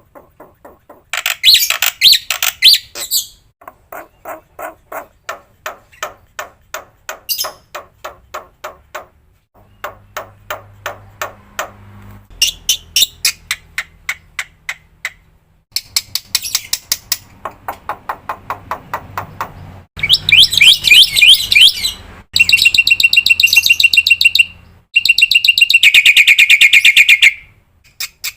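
Black-winged myna (jalak putih) singing a long, varied song full of mimicked 'isian' fills: runs of rapid repeated chattering notes, with loud, harsh, dense phrases in the last third.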